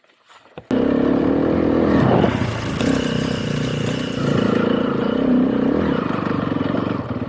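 Motorcycle engine running under throttle, coming in suddenly about a second in and rising and falling slightly in pitch, then fading near the end.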